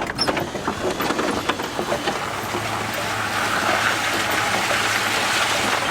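Truck camper driving on a rough dirt road: steady road and engine noise, with knocks and rattles in the first couple of seconds, then a low steady drone comes in.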